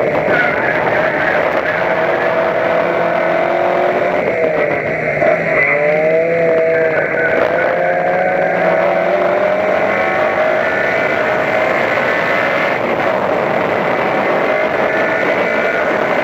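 Racing car's engine running hard, heard from inside the car. The revs dip and recover about five seconds in, then climb steadily as the car accelerates down the straight.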